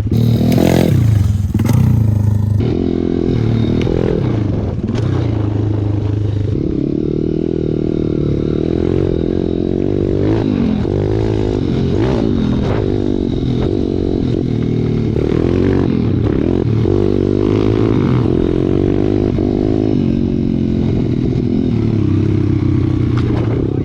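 Pit bike's single-cylinder four-stroke engine revving up and down over and over as it is ridden. A loud rush of noise covers the first couple of seconds.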